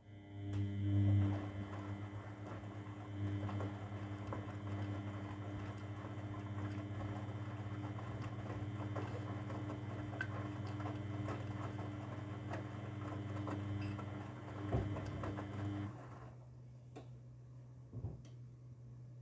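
Grundig washing machine's drum motor turning the drum through the wash, a steady hum with a patter of small knocks from the tumbling laundry, stopping abruptly about sixteen seconds in. A single thump comes a couple of seconds later.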